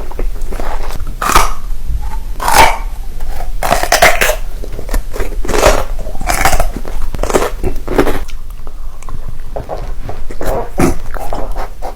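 A person biting and chewing food for ASMR eating sounds: irregular sharp bites and chews, roughly one every half second to a second.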